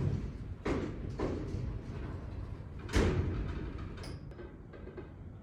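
A few dull thumps, the loudest about three seconds in, over a low steady rumble.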